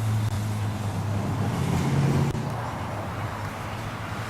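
Car engine running steadily, rising briefly in pitch and loudness about two seconds in as it is revved or pulls forward, then settling back.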